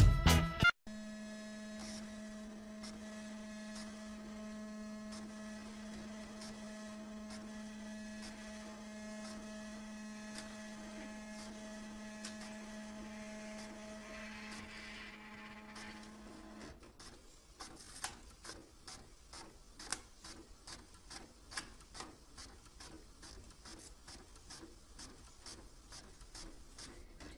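A steady electrical-sounding hum with a low tone for about sixteen seconds, which then stops and gives way to a fast, uneven ticking.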